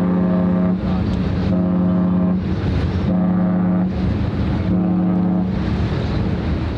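Ship's horn sounding a series of short blasts on one low pitch: four in a row, each under a second long and about one and a half seconds apart. Wind and water noise remain after the last blast.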